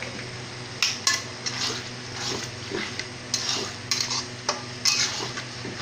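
A metal spatula stirring and scraping in a pan of frying onions and sauce, with irregular clinks and scrapes against the pan, over a steady low hum.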